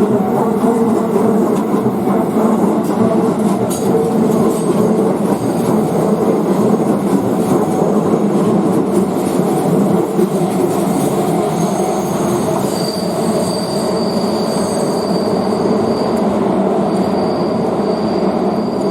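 Shin-Keisei Electric Railway electric train running past over a level crossing: a steady rumble of wheels on rail. Thin, high wheel squeal joins in from a little past halfway.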